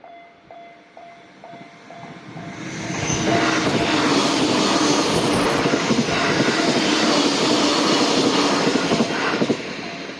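Japanese level-crossing warning bell ringing "kan-kan" about twice a second. A JR Sobu Line electric train then runs through the crossing, building up over about two seconds. Its running noise drowns the bell for about six seconds, then drops away sharply near the end.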